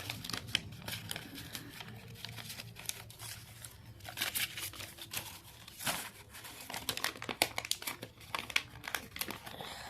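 Paper banknotes being handled and counted by hand, crinkling and rustling in irregular crackles as the notes are flipped through.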